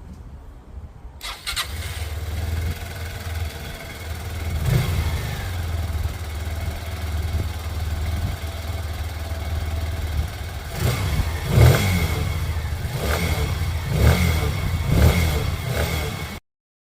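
Lexmoto Michigan 125cc EFI motorcycle engine starting about a second in, then idling with a steady low drone. It is revved once about five seconds in and given several quick throttle blips in the last few seconds, then cuts off suddenly.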